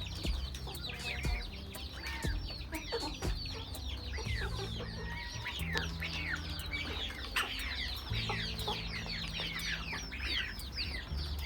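A flock of chickens calling continuously: clucking and a dense stream of many quick, high, falling chirps, with a low steady hum underneath.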